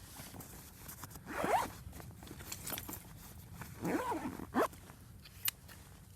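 A zip being pulled in two strokes, about a second and a half in and again about four seconds in, followed by a short click.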